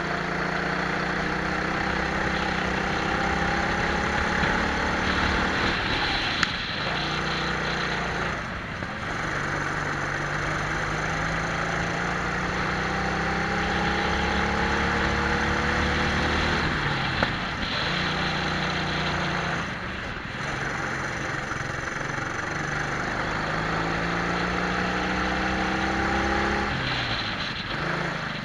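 Twin-engine Prokart's two two-stroke engines at full throttle, the pitch climbing steadily for several seconds at a time and falling away sharply about five times as the kart slows and picks up again.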